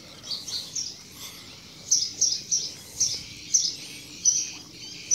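A small bird chirping: a string of short, high chirps, a few faint ones near the start, then louder ones about every half second from two seconds in.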